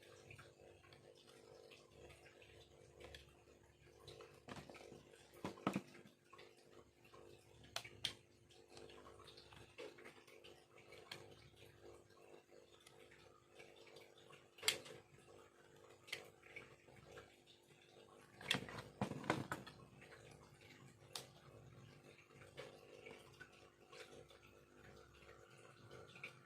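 Small hand carving tool working bamboo: irregular sharp clicks and taps, some in quick clusters, over a faint steady hum.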